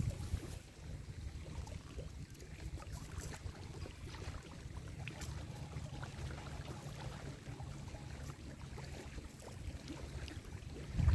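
Steady low rumble of wind buffeting the microphone, with faint scattered ticks.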